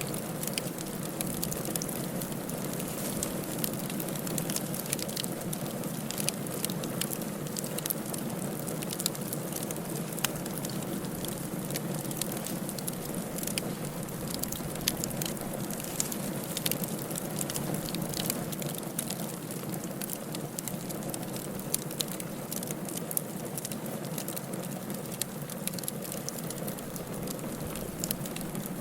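Wood fire burning in a fireplace, a steady hiss with frequent irregular sharp crackles and pops of the burning firewood.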